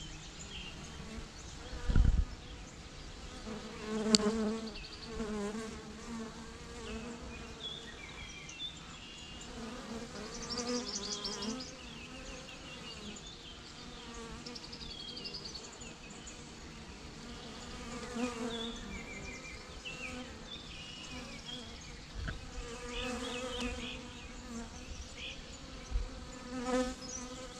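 A bee swarm buzzing, its drone swelling and fading as bees fly close to the microphone. There is a sharp low thump about two seconds in.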